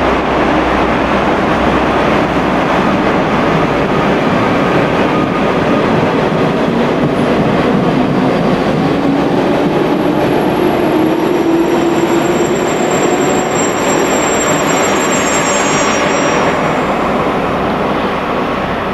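A JR West 419 series electric train, converted from a sleeper express, running in along the platform with a steady, loud rumble of wheels and running gear. A thin, high squeal joins in from about two-thirds of the way through.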